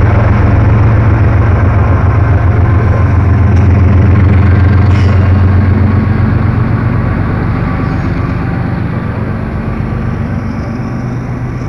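CSX diesel freight locomotives passing close by, their engines a loud, steady low drone that fades after about six seconds as the train's autorack freight cars roll past.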